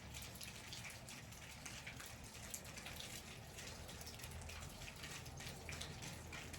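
Faint, irregular patter of small drips and ticks from water dripping off ice-glazed trees and limbs.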